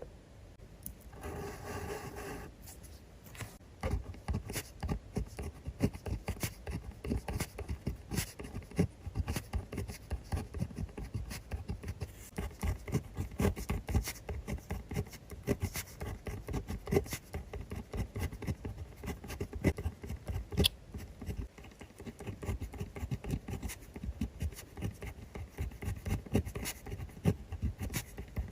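Pen writing on notebook paper: a brief scrape near the start, then from about four seconds in a steady run of short scratchy strokes and taps.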